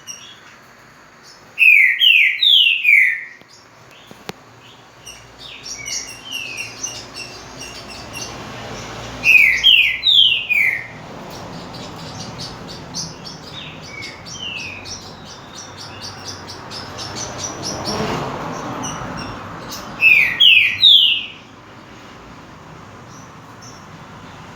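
Green-winged saltator (trinca-ferro) singing: three loud phrases, each a quick run of about four falling whistled notes, spaced several seconds apart, with quieter high chirps between them.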